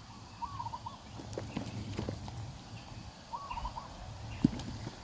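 A bird calls a short wavering phrase twice, about three seconds apart, over scattered light clicks and knocks and a low rumble, with one sharper knock near the end.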